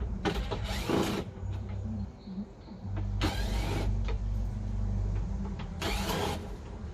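Electric rotary tool (Dremel) cutting through a plastic bumper cover: a steady motor hum with three short, louder bursts of cutting.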